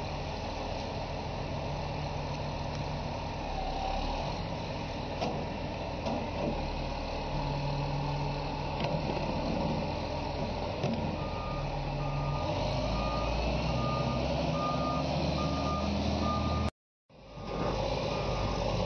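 Heavy diesel machine running with a steady low rumble; from a little past the middle its reversing alarm beeps at an even pace, about three beeps every two seconds. Near the end the sound cuts out for a moment, then the beeping goes on.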